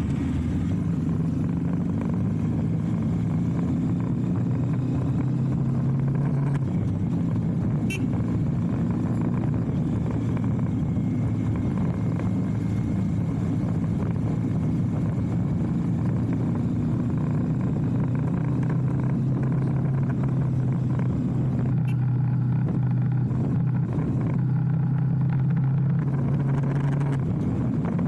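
Motorcycle engine running steadily under way, its pitch dropping about six seconds in and rising again past the middle as the speed changes.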